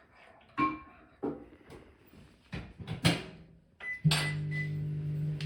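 Dishes and cutlery clinking and knocking in a few separate strikes. About four seconds in, a steady low electrical hum starts suddenly and keeps going.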